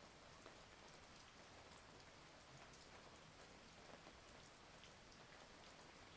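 Faint, steady rain falling, with many individual drops ticking through an even hiss.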